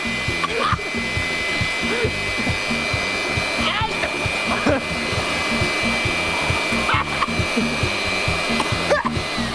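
High-powered air blower running flat out, a steady rush of air with a high whine.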